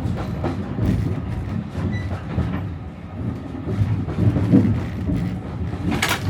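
Heritage diesel-hauled train heard from inside a moving passenger carriage: a steady low rumble of running wheels with irregular knocks over the rail joints, and a sharp clack near the end.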